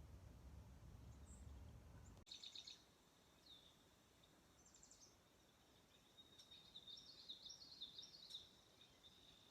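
A low rumble that cuts off suddenly about two seconds in, then faint small-bird chirps: a quick burst of chirps, a single down-slurred note, another chirp run, and a longer twittering phrase near the end, over a steady thin high tone.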